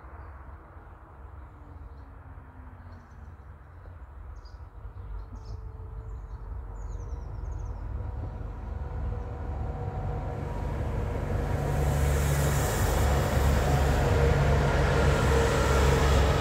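Ferrovie del Sud Est passenger train approaching the bridge. Its running noise grows steadily louder from about four seconds in and is loud over the last few seconds, as the train comes onto the bridge.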